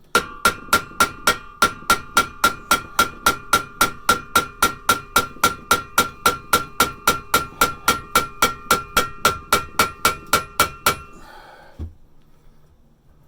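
Hammer striking steel in a fast, even run of about four blows a second, each blow ringing with a metallic tone, driving a screwdriver in to split a rusted exhaust pipe out of a muffler's inlet. The blows stop about 11 seconds in, followed by one lone knock.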